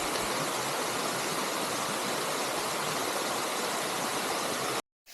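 Mountain stream water rushing steadily, cut off abruptly near the end.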